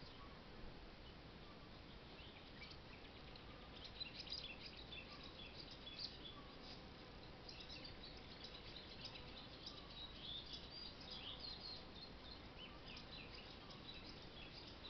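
Faint chirping and twittering of small birds in irregular bursts, busiest from about four to six seconds in and again from about seven to twelve seconds, over a light steady background hiss.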